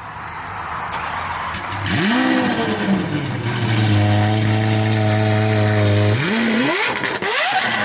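Loud car engine cold-starting: it flares up about two seconds in, drops back to a steady high idle, then is blipped in two quick rising revs near the end. Bystanders call it loud.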